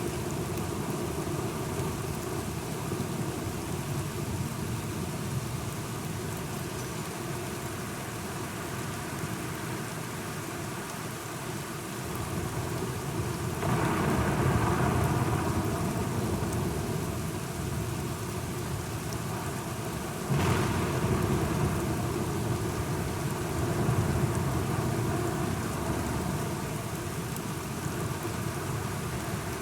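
Steady rain falling, with rolling thunder swelling in the middle and a sudden thunder crack about two-thirds of the way through.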